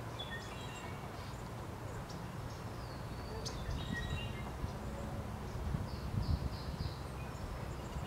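Birds calling with short high chirps and thin whistled notes, with a quick run of four or five notes near the end, over a low rumble.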